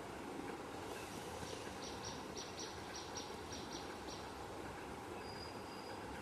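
A bird giving a rapid run of short high chirps, about four a second, for some three seconds, then one thin high whistle near the end. Under it is a steady low background rumble.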